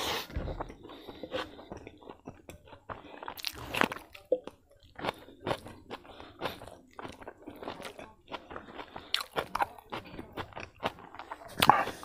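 A person chewing close to the microphone: irregular crunchy bites and wet mouth sounds from a handful of rice and kidney beans eaten with a raw green leaf.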